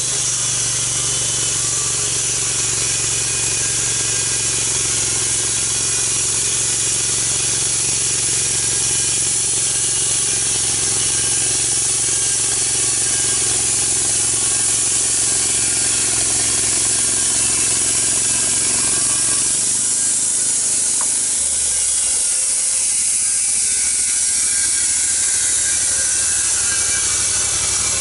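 Engine-powered portable sawmill running steadily as it cuts through a log, a loud hissing cut over the engine's hum. About three quarters of the way through, the engine note shifts lower.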